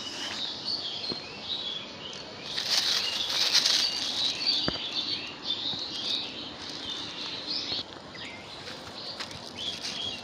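Small birds chirping on and off throughout, with a louder rustle of handling about three seconds in and a few light clicks.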